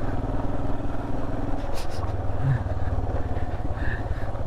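Royal Enfield Himalayan's 411 cc single-cylinder engine running at low revs while the loaded motorcycle descends a rough road, its evenly spaced firing pulses steady and a little stronger from about halfway.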